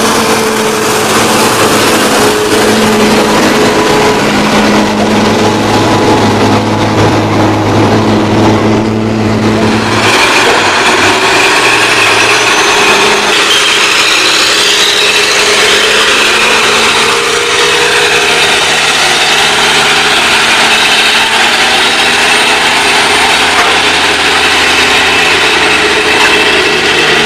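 Truck engine running under load in a high gear, heard from inside the cab; its steady note changes to a different pitch pattern about ten seconds in.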